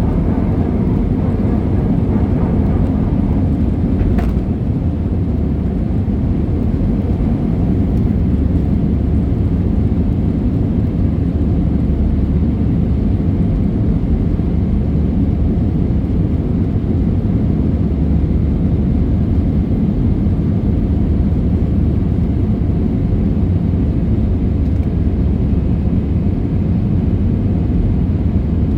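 Jet airliner cabin noise in flight: a steady low roar of engines and rushing air heard from inside the passenger cabin, with a faint click about four seconds in.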